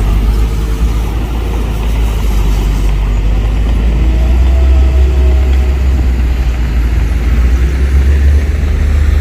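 Heavy construction machinery's diesel engine running steadily with a deep, loud drone.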